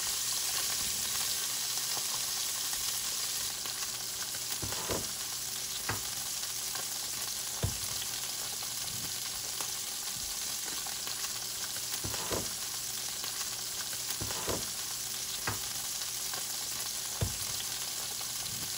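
Salmon fillets frying skin-side down in hot olive oil in a frying pan: a steady sizzle with occasional sharp pops of spattering oil.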